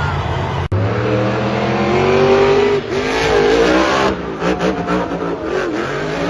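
Monster truck engine revving hard, its pitch climbing for a couple of seconds, then rising and falling in quick blips of the throttle.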